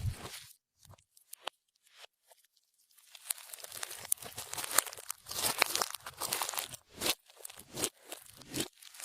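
Clear slime being squeezed, stretched and folded by hand, giving crackly, sticky popping noises in irregular bursts. It falls nearly quiet for a couple of seconds early on and picks up again about three seconds in.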